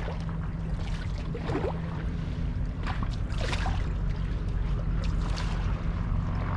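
Kayak moving through water: several short splashes of water over a steady low rumble.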